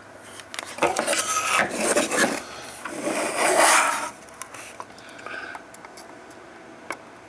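Rubbing and scraping in several loud strokes lasting about three and a half seconds, then a few faint clicks and taps.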